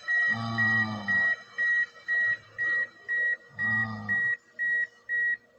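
Electronic beeper sounding a steady high-pitched beep that repeats about twice a second.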